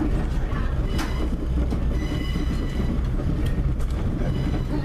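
Moving passenger train heard from a coach window: a steady rumble of wheels running on the rails, with a faint high-pitched wheel squeal and a sharp click about a second in.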